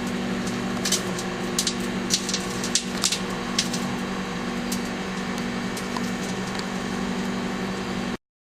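Microwave oven running with a steady hum while a CD inside arcs, giving sharp crackling snaps, most of them in the first few seconds. The sound cuts off suddenly near the end.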